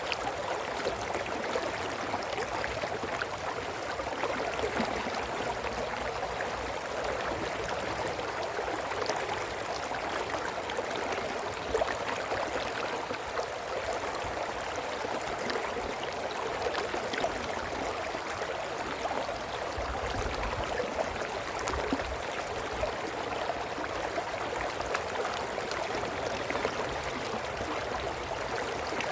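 Small brook running steadily over stones: an even, continuous babble of water.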